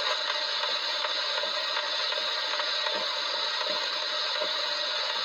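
Edison phonograph record playing through a defective reproducer: a steady rasping hiss with little or no clear music coming through, and a faint click repeating about every three-quarters of a second.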